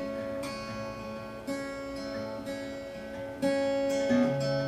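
Acoustic guitar strumming chords, each struck and left to ring, in an instrumental break of a slow song.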